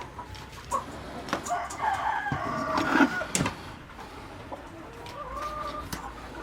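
Chickens calling and clucking: a drawn-out wavering call through the middle and a shorter one later, with scattered sharp clicks and taps.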